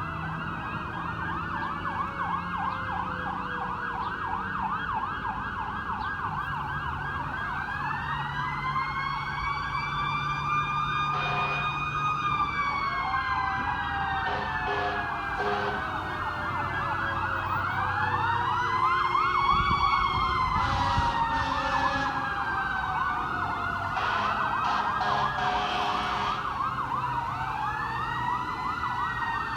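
Fire apparatus sirens sounding together: one in a fast yelp, another in a slow wail rising and falling every several seconds.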